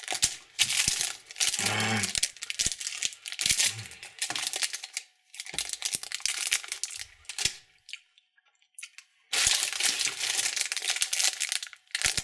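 Plastic candy wrappers crinkling and tearing as packaged sweets are handled and opened, in rustling bursts with a brief pause about two-thirds of the way through.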